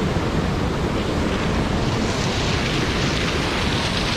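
Bomburu Ella waterfall: a steady rush of falling water, heard from the top of the falls.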